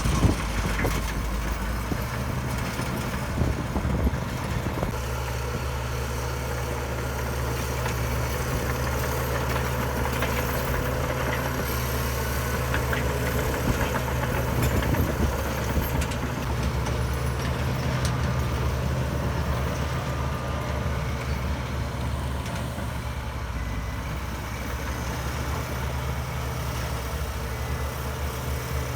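Heavy earthmoving machine's diesel engine running steadily, with a few short knocks and clanks.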